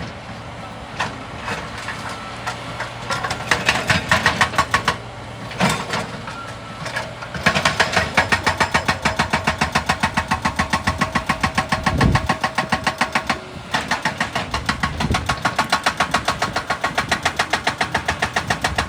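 Excavator-mounted hydraulic rock breaker hammering rock in rapid, evenly spaced blows, several a second, over the excavator's engine. The hammering comes in runs with short pauses: a brief run a few seconds in, a long run from about the middle, a short stop, then another run until near the end.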